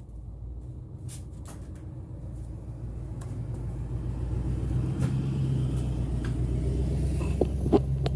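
A low mechanical rumble with a steady hum, swelling gradually over several seconds, with a few light clicks and taps on top.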